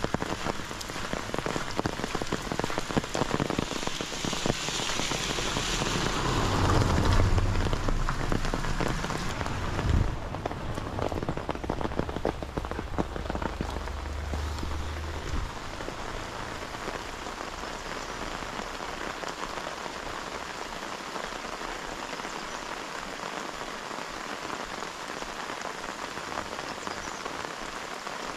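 Steady rain falling, with many close raindrop hits ticking. It swells louder around six to eight seconds in, and a low rumble underneath cuts off about fifteen seconds in.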